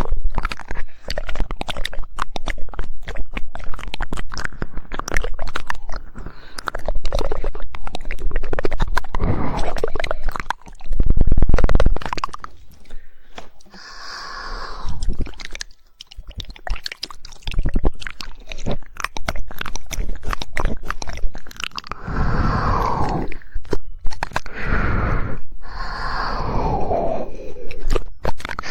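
Close-miked ASMR mouth sounds: rapid 'woodpecker' tongue clicks in dense runs, with wet mouth noises. There is a brief loud low rush about eleven seconds in, and several wet sounds that slide down in pitch near the end.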